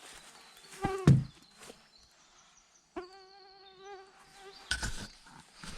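A flying insect buzzing close to the microphone for about a second and a half, its drone wavering slightly in pitch. A thump comes about a second in, and a short rustle near the end.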